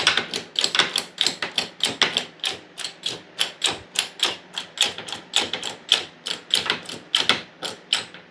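Bottle jack being pumped, its handle and valves clicking about four times a second in a steady rhythm as it pushes the bent mower-deck bracket back into place.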